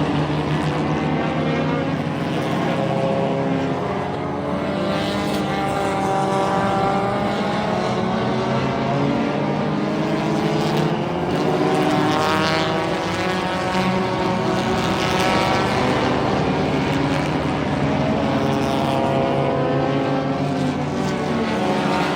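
Several front-wheel-drive race car engines running together on track, their pitches rising and falling as the cars lap and pass.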